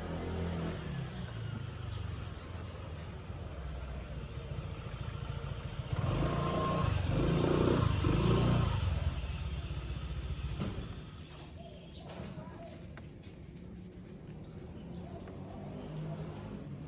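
A motor vehicle's engine running with a steady low hum, swelling louder for a few seconds in the middle, as a vehicle passing close would, then fading back down.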